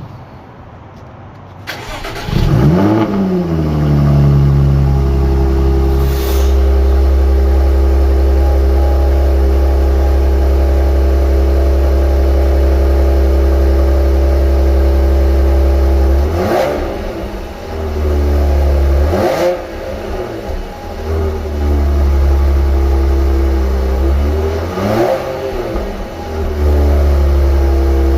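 2014 Jaguar F-Type engine cold-started: it cranks and catches about two seconds in, flares up, then settles into a loud, steady high idle. Later in the run the pitch swings up and down three times, and the note is unsettled between the swings before it steadies again near the end.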